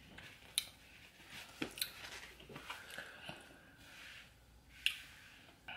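A person chewing seafood-boil food close to the microphone, soft and quiet, with a few short sharp mouth clicks.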